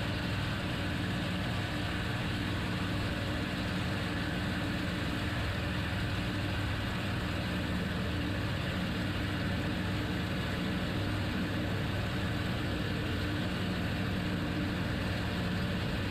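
A steady engine drone with a constant low hum, holding an even level without rising or falling.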